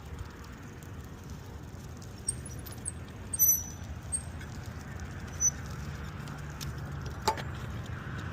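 Steady low rumble of a bicycle being ridden along a street, with a few small clicks and rattles from the bike.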